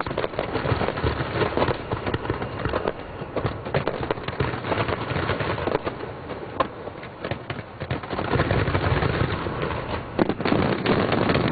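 Fireworks display going off: a dense run of bangs and crackles, with thicker clusters about two seconds in and again near the end.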